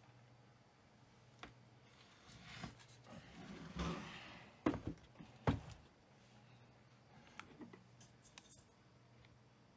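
Objects being handled: rubbing and scraping, then two sharp knocks about five seconds in, with scattered small clicks over a faint steady low hum.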